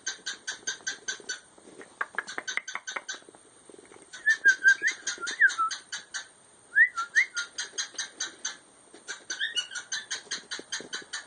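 Pet budgerigars chirping: quick runs of short repeated chirps, several a second, broken by a few brief rising and falling whistled notes.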